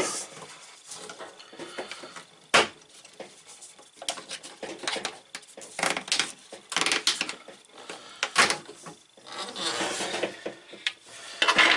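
Hands working plastic drain hose and fittings: irregular knocks, clicks and rustling, with one sharp click about two and a half seconds in.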